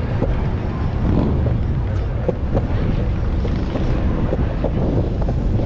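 Steady low rumble of longboard wheels rolling on pavement, with wind on the microphone.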